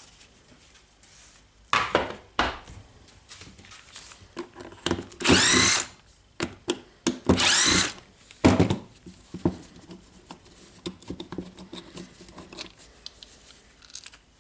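Electric screwdriver run in two short bursts, each rising in pitch as the motor spins up, backing out the screws of a hammer drill's gear housing. Scattered clicks and knocks of the tool and parts being handled come in between.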